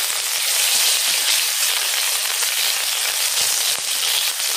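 Ginger paste sizzling loudly in hot oil in an iron kadai as it is stirred in with bay leaves and green chillies, a dense steady hiss of frying.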